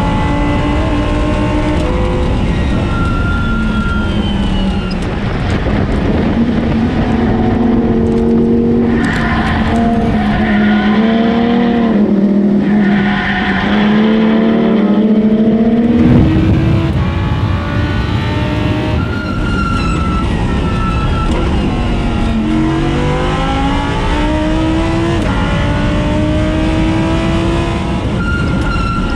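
Race car engine at full effort on a circuit, its pitch climbing again and again through the gears and dropping on the shifts and under braking, with longer steadier stretches in the middle.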